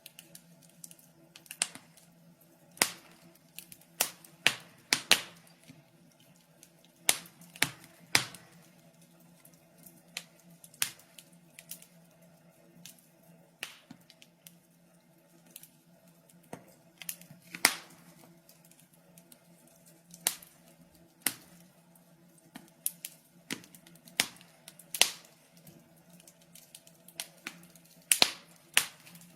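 Wood fire crackling in a fireplace: sharp pops and snaps at irregular intervals, a few louder than the rest, over a faint low hum.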